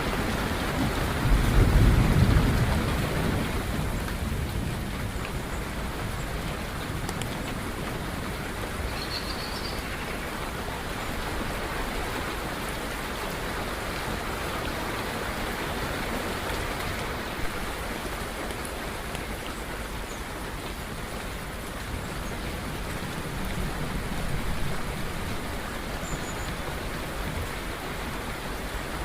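Steady rain, with a low rumble of thunder swelling about two seconds in and a softer rumble near the end. A few faint bird chirps sound over the rain.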